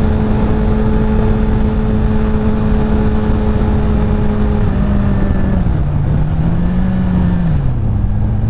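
Honda CBR1000RR inline-four engine running at a steady cruising note under constant wind rush. About five seconds in the engine note drops, picks up briefly, then falls lower near the end as the bike slows down.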